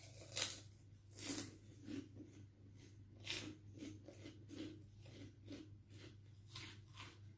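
A person chewing food close to the microphone, soft repeated chews about two a second.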